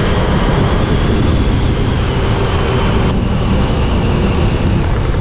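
Motorbike ride: a steady rush of wind buffeting the microphone over the running engine and road noise, the upper hiss dipping about three seconds in.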